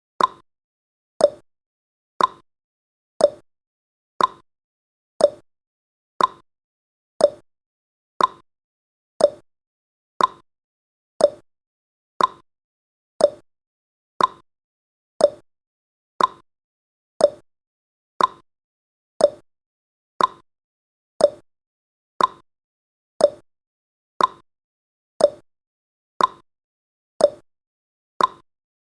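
Countdown timer sound effect: a short tick once a second, alternating between a higher and a lower pitch like a tick-tock.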